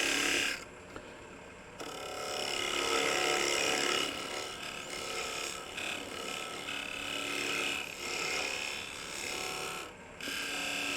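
Wood lathe running while a parting tool cuts into a spinning block of construction lumber, a steady hissing scrape over the motor's hum. The cut breaks off briefly about half a second in and again near the end as the tool is lifted.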